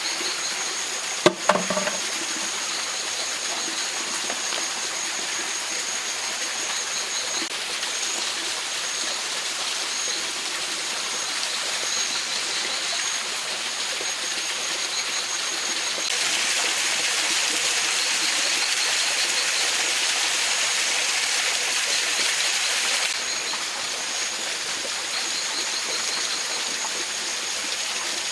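Mountain stream flowing in a steady rush, swelling louder for several seconds past the middle. A high steady trill and short repeated chirps sound over the water, and there is one sharp knock about a second in.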